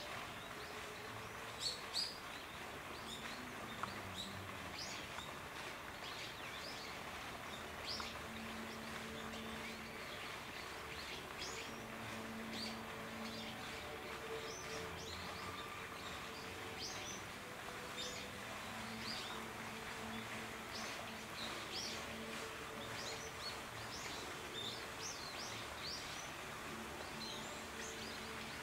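Small birds chirping in short, repeated calls throughout, over a steady outdoor background with a faint low hum that comes and goes. Two brief, louder sharp sounds around two seconds in.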